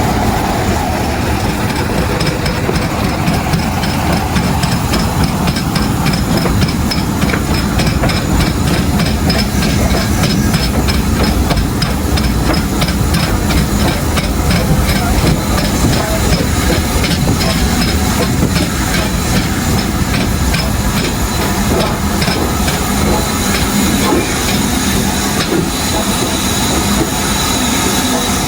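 A train hauled by an LMS Stanier Class 8F 2-8-0 steam locomotive running along the line: a steady rumble and rattle of wheels and carriages with steam hiss. A quick, regular beat comes through in the middle stretch.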